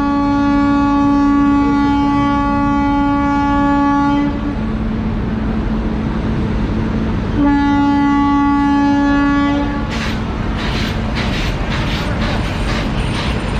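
Locomotive air horn sounding one long steady blast that stops about four seconds in, then a second, shorter blast. After that comes train-wheel clatter over rail joints: quick, uneven knocks, a few a second, over a steady rumble.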